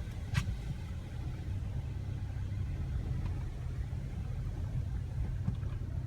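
Steady low rumble of a car running, with a short click about half a second in.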